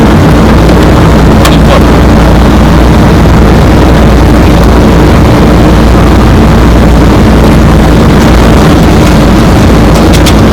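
Loud, steady cockpit noise of an airliner in flight: airflow and engine hum with a steady low drone, and a couple of faint clicks.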